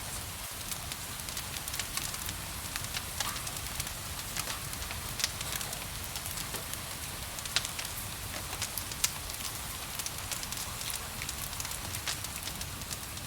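Wood fire crackling, with many scattered sharp pops and a few louder snaps in the middle, over a steady hiss of rain.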